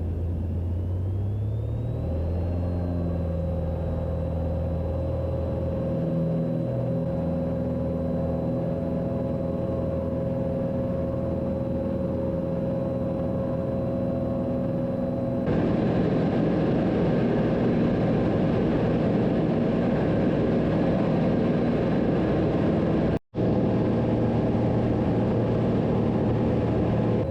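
Cessna 182's piston engine and propeller running, heard from inside the cockpit. About a second in the pitch rises as power comes up, then holds steady. About fifteen seconds in it suddenly becomes louder and rougher, and the sound drops out for a moment near the end.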